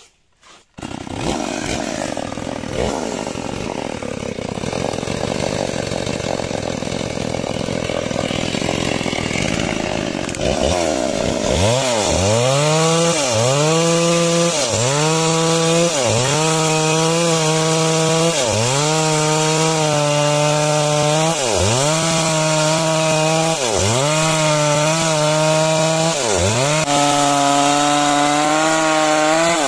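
Two-stroke chainsaw cutting lengthwise through a log to square up a beam. The sound starts about a second in. For the first third it is a steady, rough cutting noise, then the engine note dips in pitch and recovers about every second and a half as the bar works through the wood.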